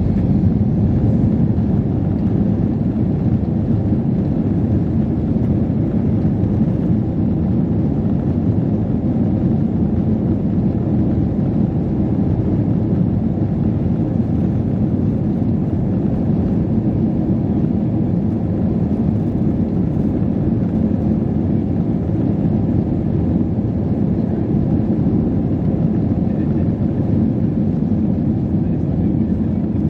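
Steady low rumble inside the cabin of an Airbus A321 airliner: jet engine and airflow noise at an even level, with no change in pitch.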